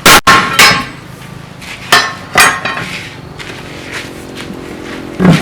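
Hammer blows on metal during truck tire work: about five sharp clanging strikes at uneven intervals, two close together near the start, two more around two seconds in and one near the end, each ringing briefly.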